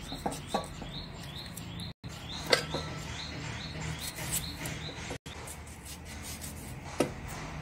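A bird chirps over and over in the background, two or three short rising chirps a second, fading out about halfway. Over it come a few sharp clicks and soft knocks as a tomato is sliced by hand with a knife and the pieces drop into a pressure cooker onto cucumber chunks.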